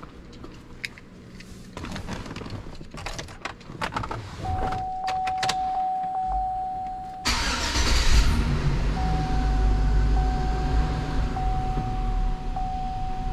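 Clicks and knocks of someone getting in, then a steady chime tone. About seven seconds in, the GMC Yukon's V8 cranks and catches, then keeps running steadily with the chime repeating. This is the first start after a new throttle body was fitted and the battery was disconnected so the engine has to relearn its idle.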